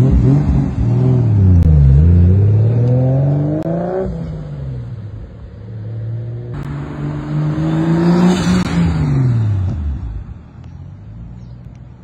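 Turbocharged BMW E36 M3's straight-six accelerating away, its note climbing through the revs, breaking at a gear change and climbing again. It grows fainter with distance near the end.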